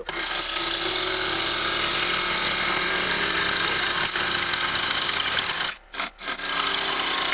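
Bowl gouge taking a push cut on a cherry bowl blank spinning on a lathe: a loud, steady scraping hiss of wood being cut, which breaks off briefly twice about six seconds in.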